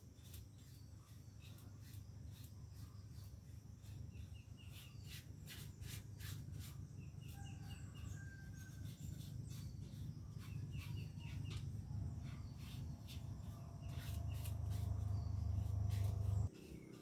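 Birds chirping in short repeated series over a low rumble that builds and is loudest near the end, then cuts off suddenly, with scattered sharp ticks and taps throughout.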